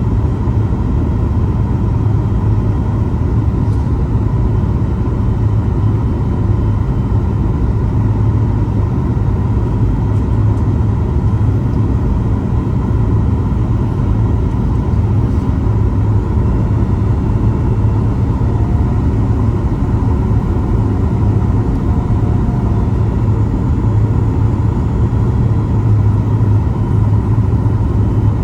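Steady low rumble inside the cabin of a Boeing 737 MAX 8: its CFM LEAP-1B engines and airflow running evenly, with no sudden knocks or changes.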